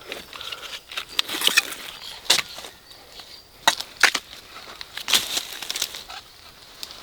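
Fallen leaves and twigs rustling and crackling, with several sharp snaps scattered through.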